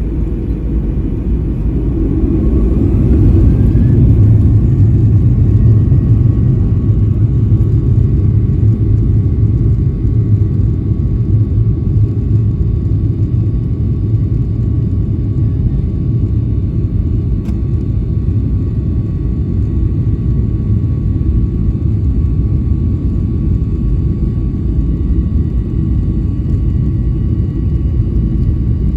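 Boeing 737-800's CFM56-7B jet engines heard from inside the cabin, spooling up to takeoff thrust with a rising whine over the first few seconds. Then a loud, steady rumble of full power during the takeoff roll.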